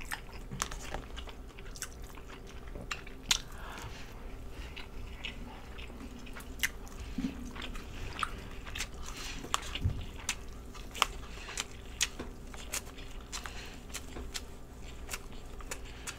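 Close-up eating sounds: chewing, biting and mouth smacks, with irregular sharp clicks and crunches, the loudest about three seconds in.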